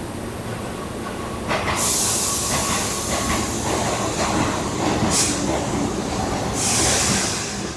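Keihan electric train running past the platform, its wheels rumbling on the rails. A loud hiss comes in about two seconds in, with shorter hisses again in the middle and near the end.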